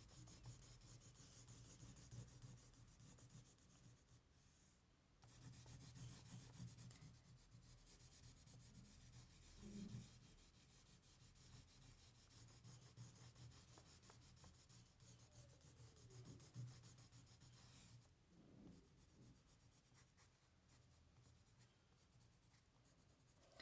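Faint scratchy rubbing of a violet oil pastel stick shading back and forth on paper, with a brief pause about five seconds in and dying away for the last few seconds.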